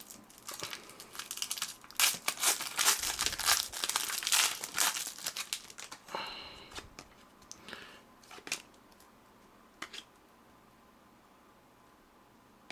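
A trading-card pack wrapper being torn open and crinkled for about six seconds, then a few light clicks and taps as the cards are handled.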